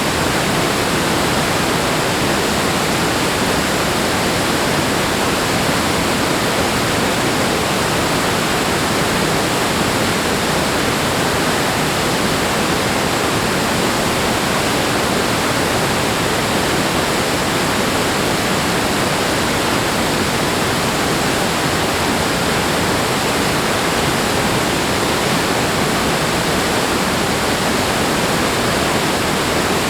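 Steady rush of flowing water, an even, unbroken noise that stays at one level throughout.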